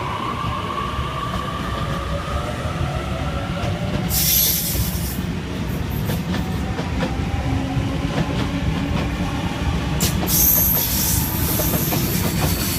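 Sydney Trains Waratah A-set electric train pulling away from the platform, its traction motors whining and rising in pitch over a steady rumble of wheels on rail. The wheels give two short high squeals, about four and ten seconds in.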